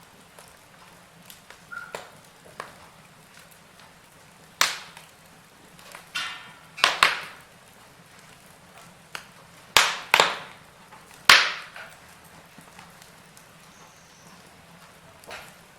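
Wood fire in a fireplace crackling over a soft hiss, with several loud, sharp pops bunched in the middle.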